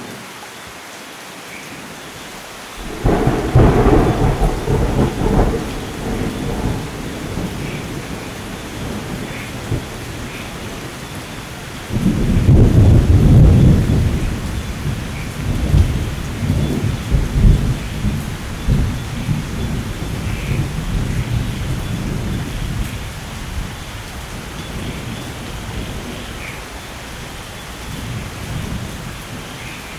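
Steady rain with two peals of thunder: a sudden crack about three seconds in that rumbles on for several seconds, then a second deep, longer rumble about twelve seconds in that rolls on and slowly fades.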